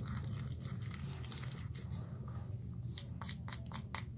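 A utensil stirring a wet borax, sand and detergent slime mixture in a bowl, with quick clicks and scrapes that come thickest in the second half, over a steady low hum.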